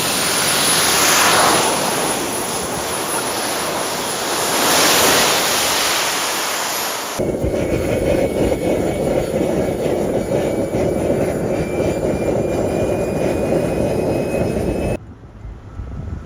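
Small 50 lb thrust jet engine running at high power: loud rushing noise with a high, steady whine that rises a little partway through. About seven seconds in the sound cuts abruptly to another stretch of the engine running, with a lower rush and a faint rising whine, which cuts off again near the end.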